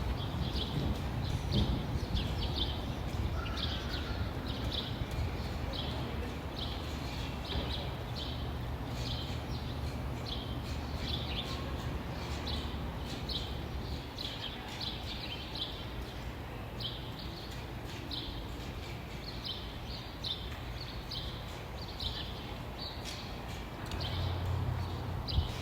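Birds chirping, with many short high chirps repeating several times a second, over a steady low rumble that swells briefly near the end.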